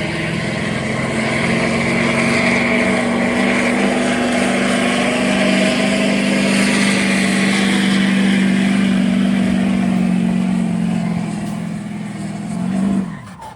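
Turbocharged stock-class diesel pulling truck at full throttle dragging the sled, engine held at a steady high pitch. Near the end the revs fall and the engine drops off suddenly as the driver lets off.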